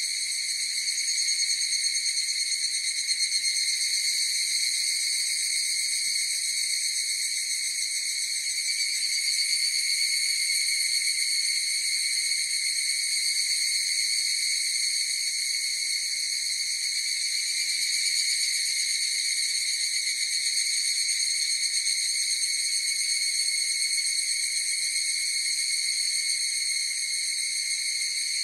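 A chorus of higurashi, the evening cicada, calling continuously. It is a steady, high-pitched ringing trill with a fast flutter, swelling and easing slightly in loudness.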